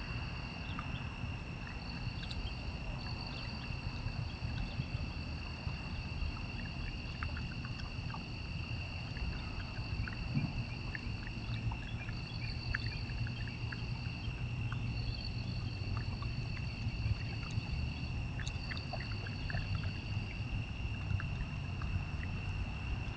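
Insects trilling steadily in two high, unbroken tones, the higher one stopping and starting every few seconds. Underneath is a constant low rumble, with scattered faint clicks.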